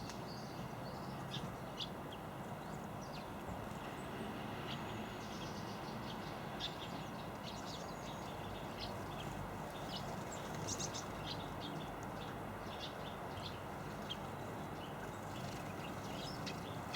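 Small garden birds chirping and calling, with many short, scattered high chirps over a steady low background noise.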